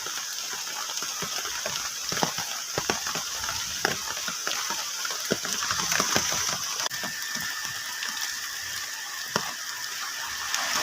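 Irregular taps and drips of heavy rain on a plastic tarp shelter, over a steady high hiss. A faint thin steady tone comes in about seven seconds in.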